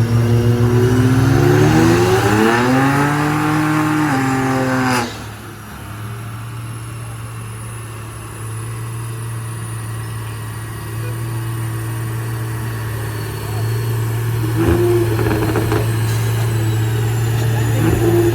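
Car engine revving, rising in pitch and then falling back, cut off abruptly about five seconds in; after that a steady low engine drone.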